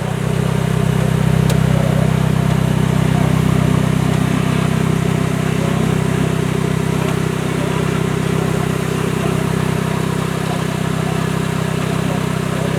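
Engine of an off-road competition 4x4 truck idling steadily at an even pitch.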